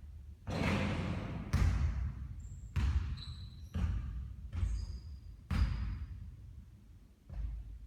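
A basketball bouncing on a hard court floor: a thud roughly every second, seven in all, each with a short ring-out. Brief high squeaks come in between.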